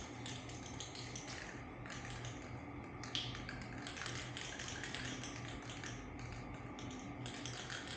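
Low steady hum with scattered light taps and clicks, one a little sharper about three seconds in.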